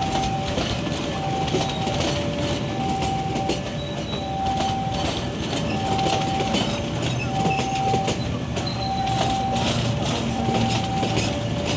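A train passing, with a steady rumble and wheels clacking over the rail joints. Over it a two-tone warning alarm alternates between a higher and a lower note about once a second.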